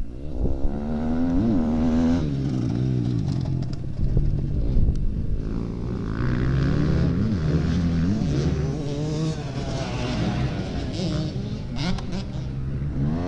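Motocross motorcycle engines riding a dirt track, several overlapping, their pitch rising as they rev and dropping back again and again.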